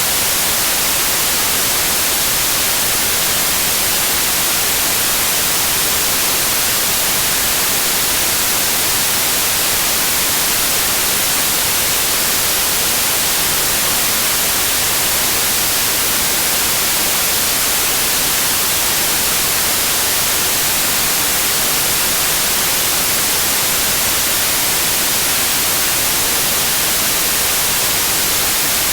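Steady white noise: an even, unchanging hiss across the whole range, brightest in the treble.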